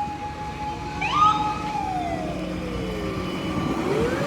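Emergency-vehicle wail siren, most likely a parade fire truck's, holding a high tone, then winding down and starting to rise again near the end. A brief higher rising chirp sounds about a second in.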